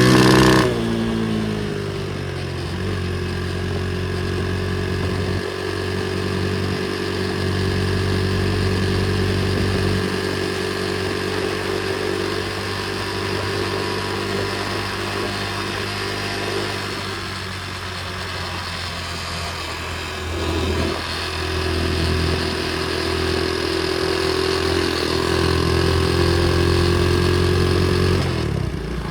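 Pit bike's small single-cylinder engine running under way. Its note drops sharply about half a second in, then holds fairly steady, eases off and picks up again about two-thirds through, and falls away near the end.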